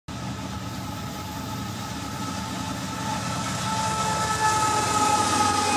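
A rail vehicle running on the track: a steady low rumble with thin, high, slowly wavering squealing tones that grow louder in the second half.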